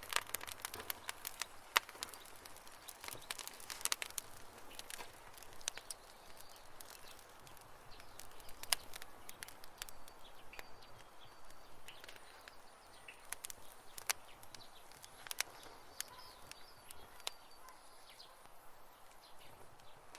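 Wood campfire crackling: irregular sharp pops and snaps over a soft hiss, busiest in the first few seconds. A few faint high chirps come through in the middle.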